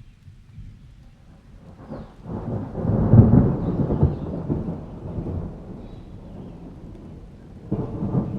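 Thunder over steady rain: a rumble builds about two seconds in, is loudest near three seconds and rolls away over the next few seconds, and a second, smaller rumble starts near the end.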